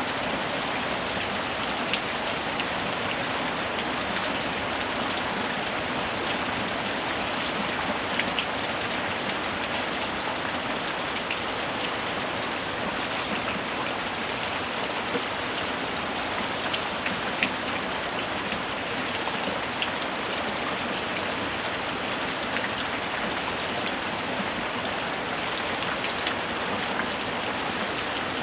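Heavy rain drumming steadily on a tin roof, a dense even hiss with scattered sharper drop ticks on the metal.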